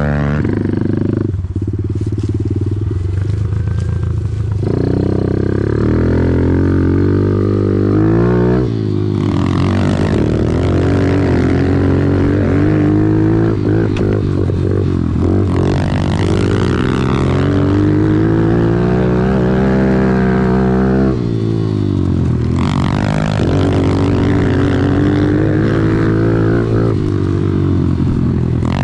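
Off-road vehicle engine running under throttle on a trail ride. Its pitch climbs and falls several times, with sharp drops about a third of the way in and again about three quarters through.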